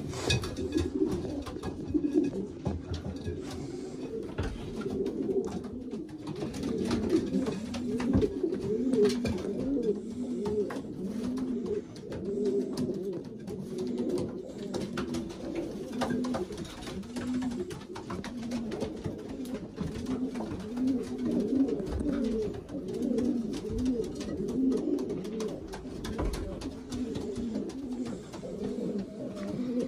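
A loft full of racing pigeons cooing continuously, several birds' coos overlapping in a repeating rise-and-fall: cocks' courtship cooing while they are being paired with hens. Faint scattered clicks and taps sound through it.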